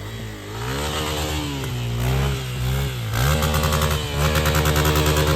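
Dirt bike engine revving up and down, then rising to a higher, steadier rev a little past three seconds in.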